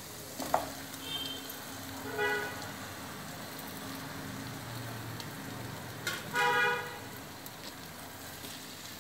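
Marinated chicken pieces tipped into a pan of hot fried onion-masala paste, frying with a steady sizzle and a knock as they land about half a second in. A vehicle horn honks twice, briefly about two seconds in and longer a little after six seconds.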